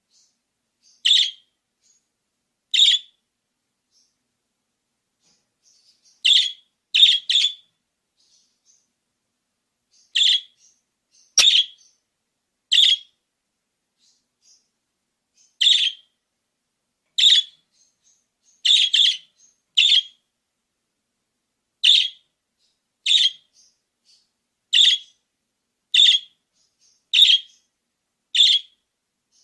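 Budgerigar chirping: a string of short, sharp single chirps at irregular intervals, sometimes two or three in quick succession, with silence between.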